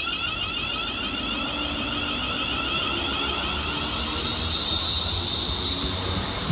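A Class 350 Desiro electric multiple unit pulling out, with a low rumble under a high, rapidly pulsing electronic tone that steadies about four seconds in.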